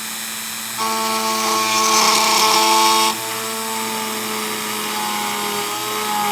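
Dremel rotary tool running at about half speed with a steady whine, drilling through a carbon-fiber RC wheelie bar. About a second in it gets louder, and a harsher cutting hiss joins it for about a second as the bit bites into the carbon fiber, then eases off.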